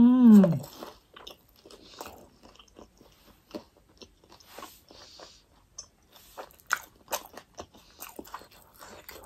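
Close-up chewing of a fried momo: crunching of the fried wrapper and wet mouth clicks, irregular throughout. A short hum falling in pitch comes at the very start.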